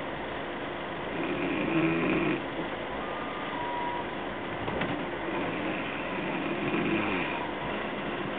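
Steady running noise of a passenger train rolling slowly through a station, heard from inside the carriage, swelling louder twice.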